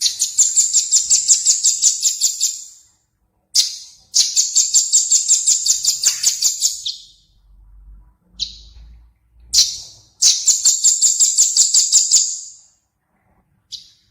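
A small songbird's high, rapid trills, about eight notes a second, in three runs of nearly three seconds each, with short single calls between them.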